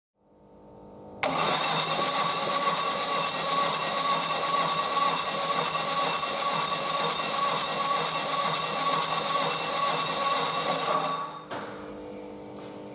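Peugeot 1.4 HDi DV4TD four-cylinder diesel engine on a test stand, spinning for about ten seconds with a fast pulsing beat. It starts abruptly and stops abruptly. A quieter steady hum remains after it stops.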